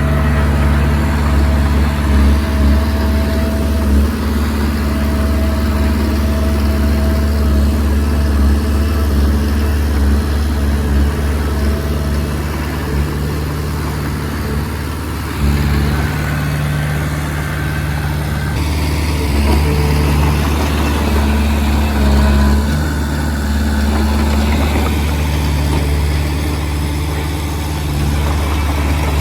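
Komatsu D20P bulldozer's diesel engine running steadily under work, its note dropping and then picking up again about halfway through.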